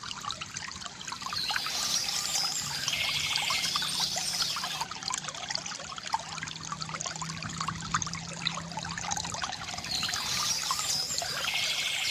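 Bamboo water fountain: water trickling and splashing steadily from the spout into a basin. Birds chirp twice over it, about a second and a half in and again near the end.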